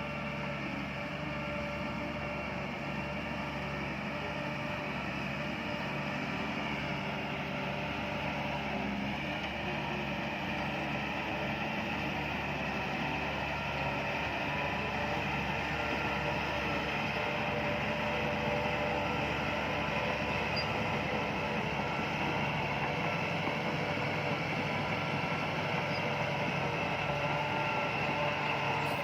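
Bulldozer's diesel engine running steadily, slowly growing a little louder.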